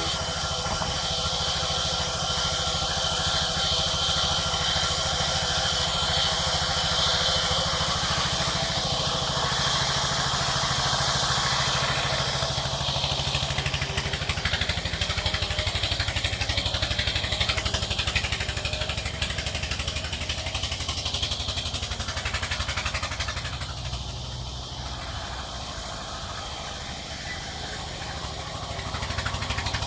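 A sawmill's engine running steadily, with a strong high hiss over it for the first dozen seconds. The sound drops a little for a few seconds near the end, then picks up again.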